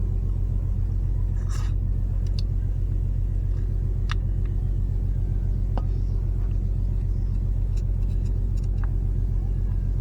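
A steady low hum, like a motor running, with a few light, sharp taps or clicks over it.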